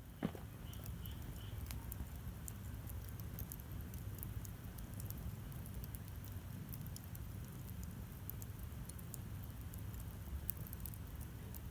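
Wood campfire burning a large log, crackling with scattered sharp pops and snaps over a steady low rumble.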